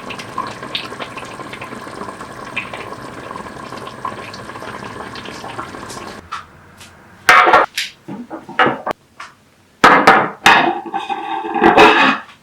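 Water running steadily for about six seconds, then cutting off. Then several loud knocks and clatters of dishes, with some ringing, about seven and ten seconds in.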